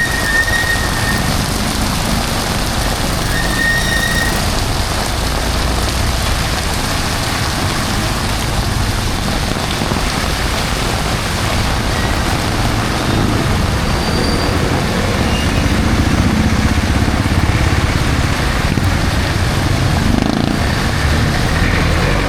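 Heavy rain falling steadily on a city street, with the low rumble of cars and motorcycles passing on the wet road; the traffic swells somewhat past the middle. Two short high beeps sound within the first few seconds.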